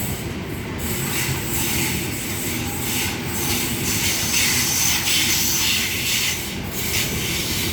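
Sydney Trains H-set (OSCAR) electric train passing through the station without stopping: a steady, loud rolling noise of steel wheels on the rails, with a strong high hiss.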